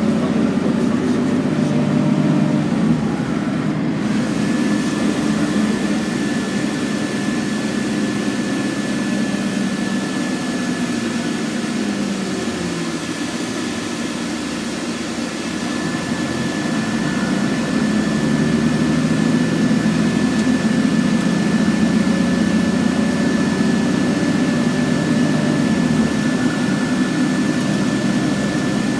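Scania N113CRB bus engine running under way, its pitch dropping and climbing a few times as the bus slows and pulls away, with a thin steady high whine starting about four seconds in.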